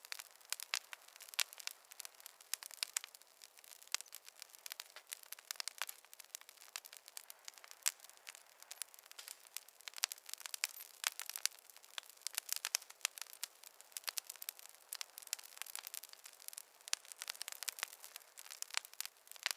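Wood fire crackling: a constant, irregular stream of small pops and snaps, with no low roar beneath them.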